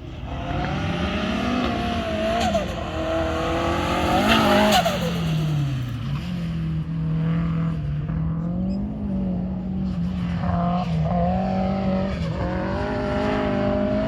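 Turbocharged Nissan Pulsar's engine being driven hard, its pitch rising under acceleration and dropping sharply about five seconds in, then climbing and falling again. There is turbo flutter when the throttle lifts.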